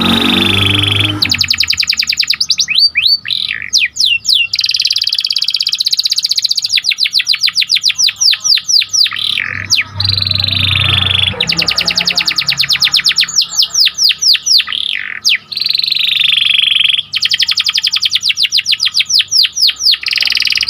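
Domestic canary singing in full, continuous song: long runs of very fast repeated trill notes, broken by quick downward-sweeping whistles.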